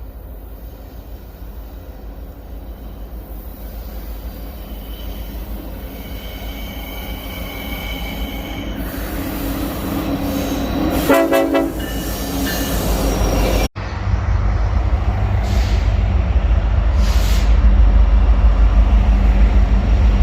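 An approaching diesel freight train sounds its locomotive horn, faintly at first and then in a loud blast about 11 seconds in. After a brief dropout the locomotives' heavy low diesel rumble grows loud as the train closes in.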